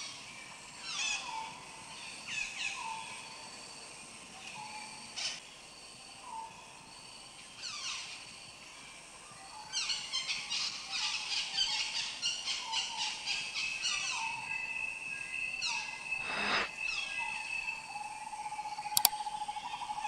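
Outdoor ambience with short falling whistled bird calls repeated about every second and a half, then a quicker run of calls and a steady high tone. Near the end there is a sharp click and a ringing ding.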